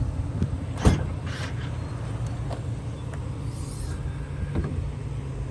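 A sharp click about a second in, then a few fainter clicks and a short hiss, over a steady low rumble.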